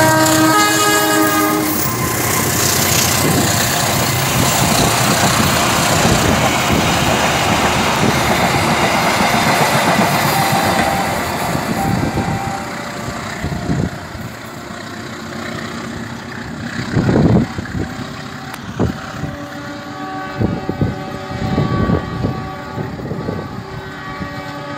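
Diesel locomotive of a passenger train sounding its horn, a chord of several steady tones that stops about two seconds in. Then the loud rumble and wheel clatter of the coaches rolling past, dropping off after about twelve seconds to quieter track noise with scattered knocks and one loud thump near the middle.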